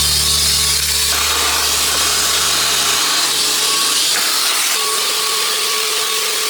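Powerful vacuum cleaner running steadily with a strong hiss of air, its lower hum dropping away about three and four seconds in as the nozzle works over garage shelves.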